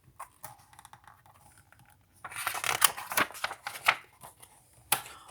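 Pages of a picture book being handled and turned: a few faint ticks, then a dry paper rustle lasting about two seconds, and a sharp click near the end.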